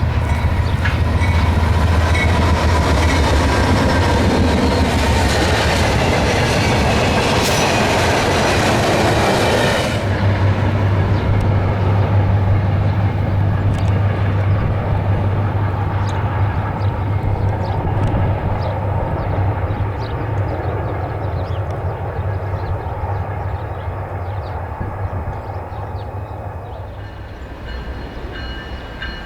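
Diesel-hauled circus train passing close by. A loud rush of locomotive and wheel noise fills the first ten seconds or so, then the cars roll past with a steady low rumble and wheels clicking over the rail joints, slowly fading.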